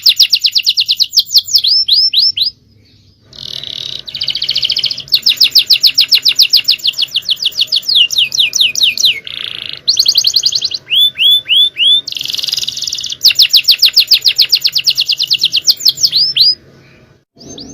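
Male domestic canary singing at full power: long, fast trills of rapidly repeated high notes, broken by runs of slower downward-sweeping whistles and a brief pause a few seconds in.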